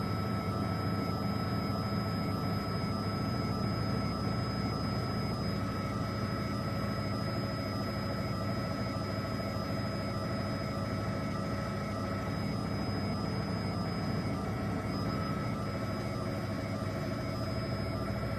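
Steady drone of a helicopter in flight, heard from inside the cabin, with several steady whining tones over a constant rumble.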